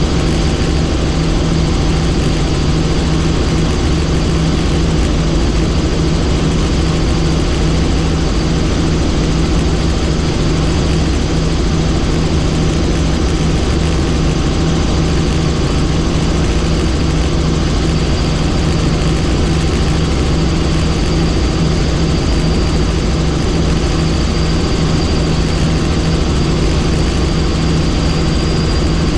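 Helicopter in flight: steady, loud engine and rotor noise with a low pulsing hum and a thin high whine that grows stronger in the later seconds.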